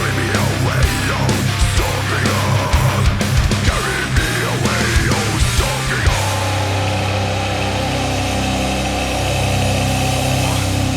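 Death metal music: distorted guitars over fast, pounding kick drums. About six seconds in the drum hits stop and a held, sustained guitar chord rings on.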